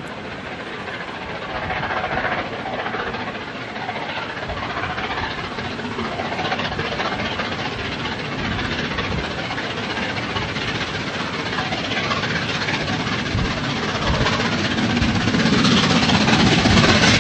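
Train running on the line, with a few knocks and growing louder over the last couple of seconds as it comes closer.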